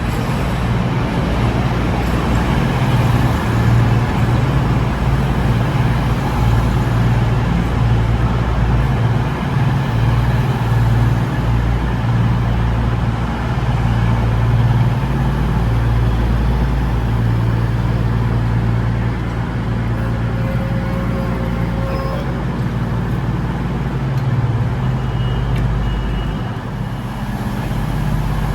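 Diesel train engine running steadily with a heavy, low hum.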